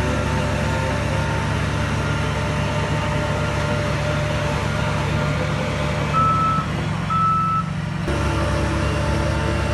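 Heavy diesel engine of earthmoving machinery running steadily, with two reversing-alarm beeps, each about half a second long, about six seconds in.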